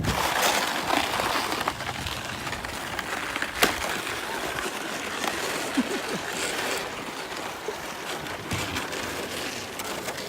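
Sled sliding down a snowy slope: a steady hiss of snow rushing under the sled, with one sharp knock about three and a half seconds in.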